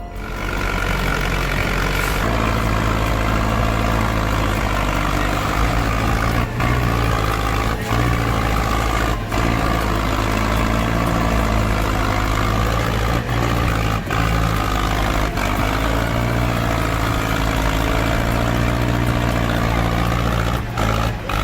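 Heavy diesel tractor engines of an LKT 80 skidder and a Fendt 939 running hard under load in a rope pull, the engine note wavering slightly up and down.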